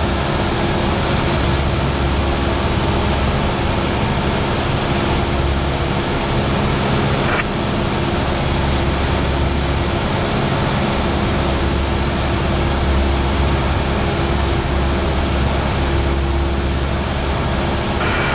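Cabin noise of a Cessna 172R in flight: its four-cylinder Lycoming engine and propeller droning steadily, with one brief click about seven seconds in.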